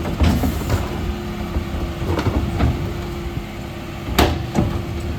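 Dennis Elite 6 refuse lorry running with a steady low hum, with several knocks and clatters of bins being handled and a loud bang about four seconds in.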